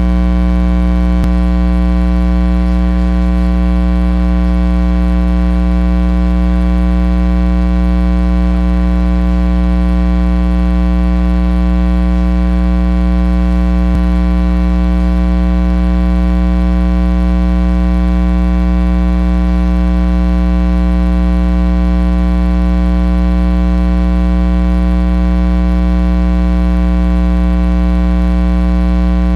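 Loud, steady electrical mains hum, a constant buzz that does not change.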